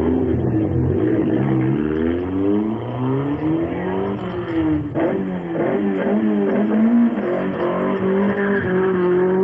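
Rally car engines revving, the pitch climbing and dropping several times, then holding steadier near the end.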